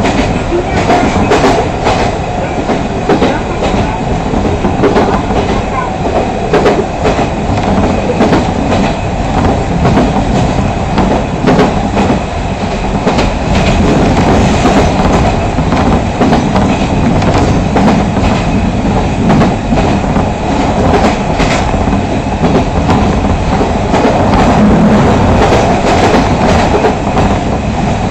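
Fukui Railway Fukubu Line train running at speed, heard from inside the car: a steady, loud rumble of wheels on rails, with frequent sharp clicks and clatter from the running gear.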